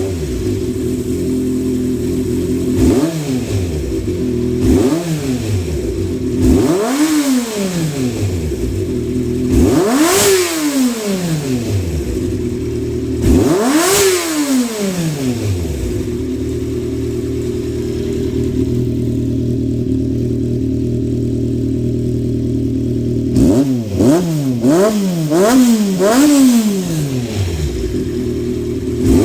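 Honda CBX400F's air-cooled inline-four engine idling steadily on freshly repaired and adjusted carburetors, with repeated throttle blips that rise and drop cleanly back to idle. There are about five spaced revs, then a quick run of about four short blips near the end.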